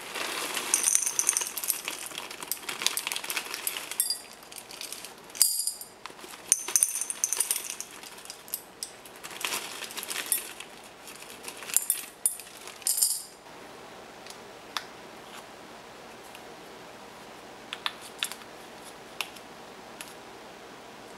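Clinking and rattling of kitchen utensils and dishes being handled, in busy irregular bursts with short metallic ringing, then only a few scattered clicks after about thirteen seconds.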